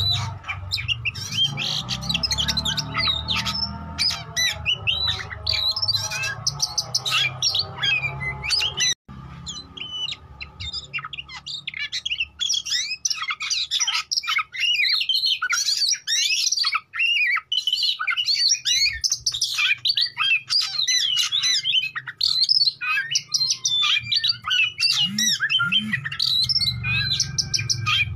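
Oriental magpie-robin (kacer) singing a fast, varied stream of whistles, chirps and harsh squawky notes in full, vigorous song. The recording breaks briefly about nine seconds in, and there is a low hum underneath in the first part and near the end.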